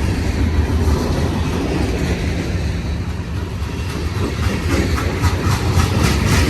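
Heavy freight train's cars rolling past, a steady low rumble of steel wheels on rail, with a quick run of wheel clicks in the last couple of seconds.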